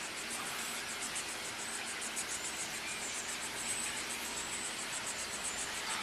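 Insects chirping in a fast, even pulse, several chirps a second, over a steady background hiss.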